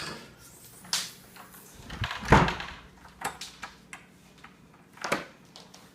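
An indoor door being shut: a thud a little over two seconds in, the loudest sound, among several smaller knocks and clunks.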